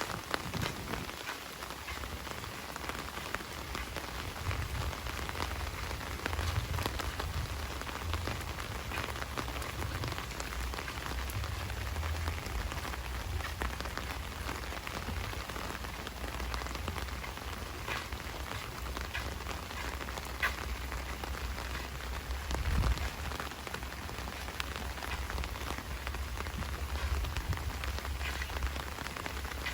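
Heavy rain falling steadily, with many sharp close drop hits and a low rumble underneath.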